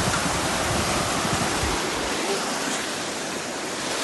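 Rushing white water of a small class 2 river rapid below a fish pass, a steady broad rush, with a low rumble under it for the first couple of seconds.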